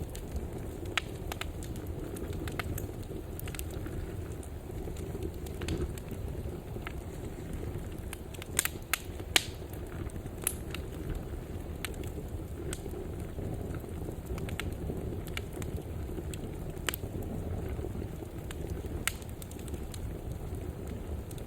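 Wood fire burning in a fireplace: a steady low rumble of the flames with scattered sharp crackles and pops, the loudest few bunched together a little before halfway.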